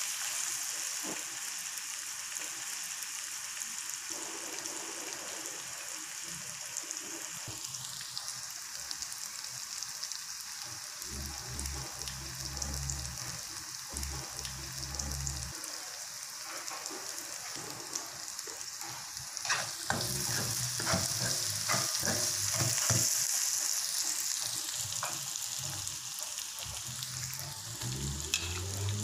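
Food frying in hot oil in a pan: a steady sizzle, with scattered clicks from stirring.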